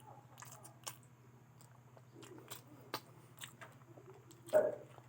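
Close-up eating sounds of spicy fried potatoes being bitten and chewed: a scatter of short wet mouth clicks, with one louder brief mouth sound near the end. A steady low hum runs underneath.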